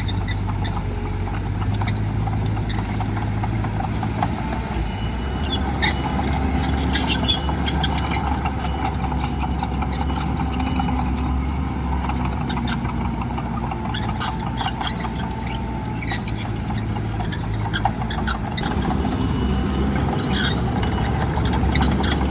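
Heavy diesel earthmoving machinery running steadily, with the engine note shifting a few times, mixed with scattered clanks and rattles.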